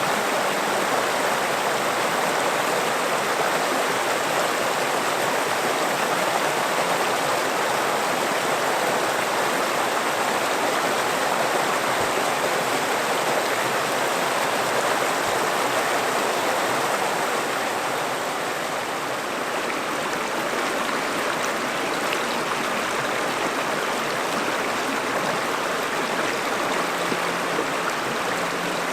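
River water flowing, a steady rushing and babbling that eases a little just past the middle.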